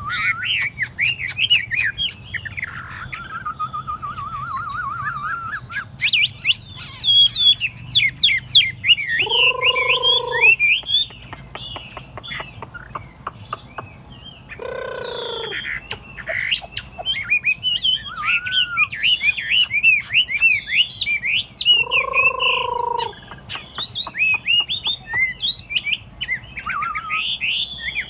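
Chinese hwamei (họa mi) singing: a long, fast run of varied whistled and warbled phrases. Three times a steadier, lower note of about a second breaks in among the phrases.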